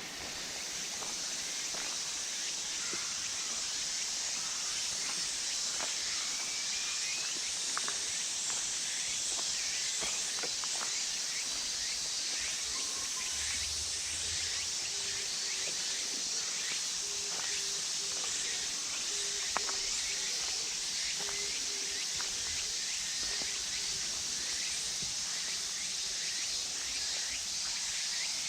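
Outdoor park ambience dominated by a steady, high-pitched insect chorus, with a few faint bird chirps and a faint repeated low pulsing call in the middle.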